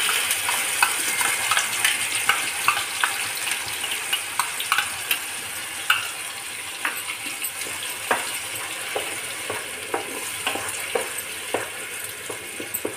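Onion, garlic and green chilli paste sizzling in hot oil in a nonstick frying pan, freshly added, with a wooden spatula scraping and tapping the pan in many small clicks. The sizzle eases slowly as the paste fries.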